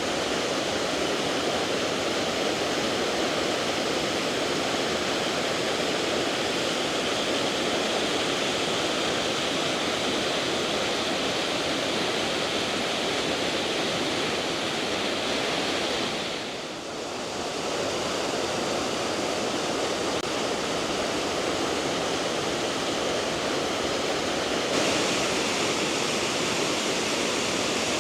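Steady rushing and splashing of water pouring down a hill-stream waterfall, close by. It dips briefly about two-thirds of the way in and turns brighter and hissier near the end.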